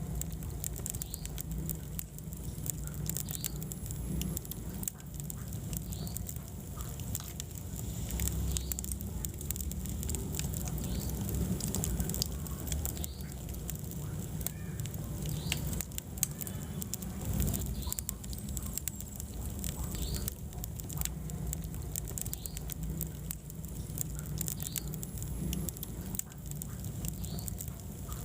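Wood fire burning in a fireplace: irregular crackles and snaps over a steady low rumble of flames.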